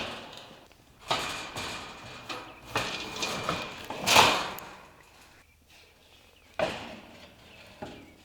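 A handful of separate knocks and bangs, about five, each fading out over roughly half a second, the strongest about four seconds in.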